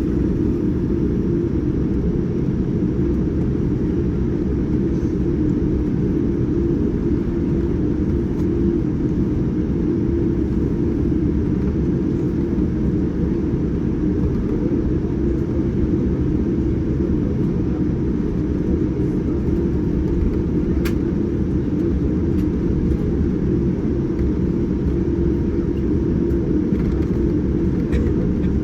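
Steady low rumble of a Boeing 787-9 airliner heard from inside the cabin, engine and airflow noise holding an even level, with a faint click twice.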